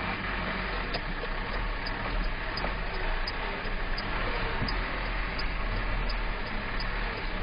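Steady road and engine noise heard from inside a moving car, with a faint regular tick about every 0.7 seconds.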